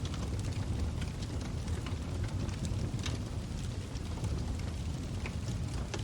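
Log fire burning in a fireplace: a steady low rumble of the flames with frequent small, irregular crackles and pops from the burning wood.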